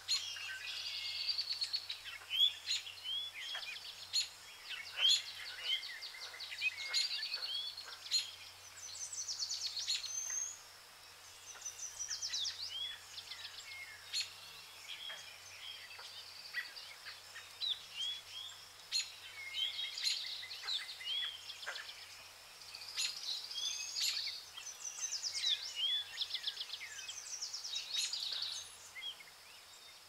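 Small birds chirping and calling: many short sweeping chirps and quick trills, repeated throughout, over faint outdoor background noise.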